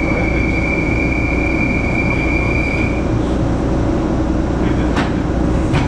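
Inside a 413 series electric train's motor car just after pulling away from a station: a steady rumble of motors and wheels. For the first three seconds a high, steady squeal rides on top of it, typical of wheel flanges on a curve or turnout. A couple of sharp clicks come near the end.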